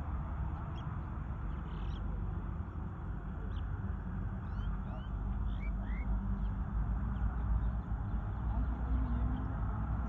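Faint, short rising chirps and whistles of birds, scattered through the first part and thinning out after about seven seconds, over a steady low rumble.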